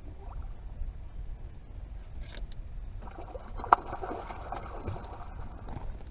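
Steady low rumble of wind and water around a small fishing boat. About halfway in, roughly three seconds of rattling, clicking gear noise starts, with one sharp click the loudest of it.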